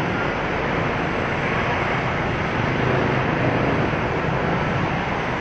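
Steady street traffic noise: an even, unbroken hum of passing vehicles.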